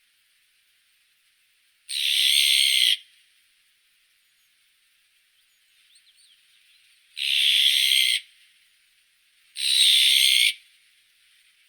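Azure-winged magpie giving three harsh, hoarse calls, each about a second long: the first about two seconds in, the other two close together near the end. A few faint short chirps come in between.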